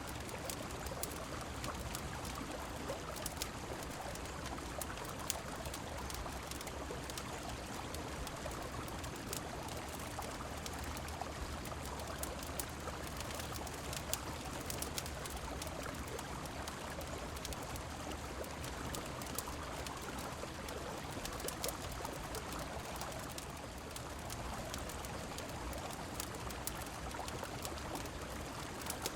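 Steady rushing of a river mixed with rain, with frequent short, sharp crackles and pops from a wood fire scattered through it.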